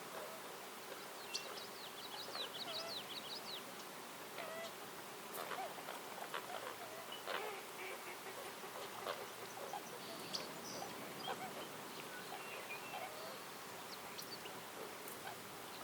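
Woodland birds chirping and calling in short scattered notes, with a quick run of notes a few seconds in, over a faint steady insect buzz.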